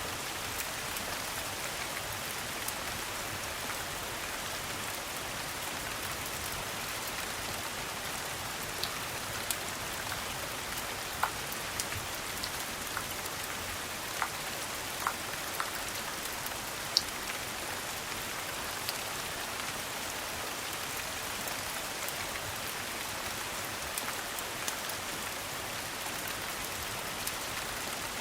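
Steady rain falling, an even hiss, with a few scattered sharp pops and clicks standing out over it.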